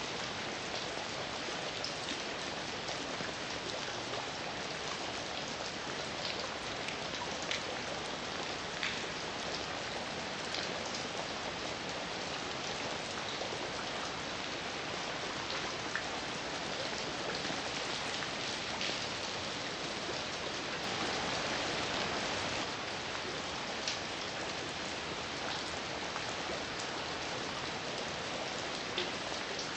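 Heavy rain falling steadily, an even hiss with individual drops tapping sharply now and then, swelling slightly for a couple of seconds past the middle.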